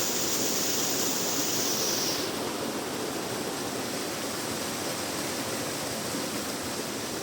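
Steady rushing of water from a small waterfall, an even hiss with no breaks. A thin higher hiss laid over it stops about two seconds in.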